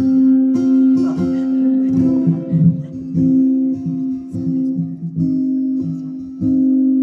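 Live band playing the instrumental intro of a song, led by guitar, with a pulsing low line underneath.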